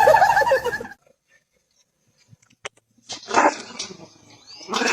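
A dog vocalising in short bursts, one about three and a half seconds in and more near the end, after a moment of dead silence.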